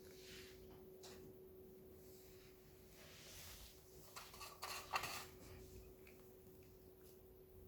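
Near silence: room tone with a faint steady hum, and a few soft clicks and rustles about four to five seconds in.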